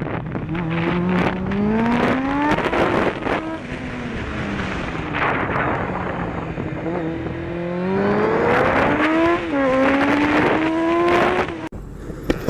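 Motorcycle engine accelerating hard through the gears, its pitch climbing and dropping back at each shift, with a long easing-off in the middle, over steady wind rush; the sound cuts off abruptly near the end.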